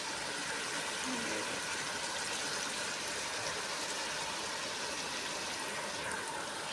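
Aloo gobhi gosht frying in ghee in an aluminium pot, a steady, even sizzling hiss. The ghee has separated from the masala, the sign that the curry is done.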